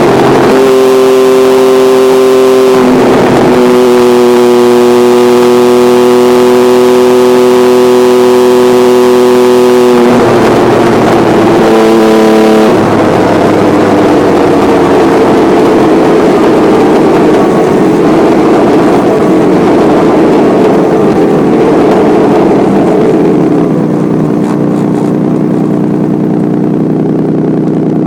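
Honda CBX motorcycle engine running loud at steady raised revs, with a brief dip about three seconds in. From about halfway the revs wind slowly down toward idle.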